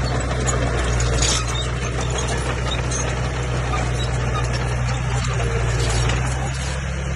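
Komatsu bulldozer's diesel engine running steadily under load, with high-pitched squealing over it.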